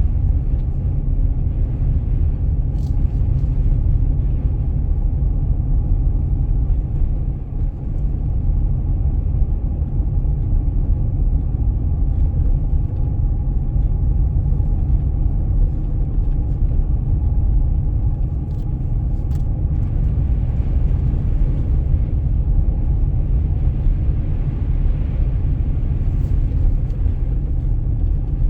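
Car driving, a steady low rumble of engine and road noise, with a few faint clicks.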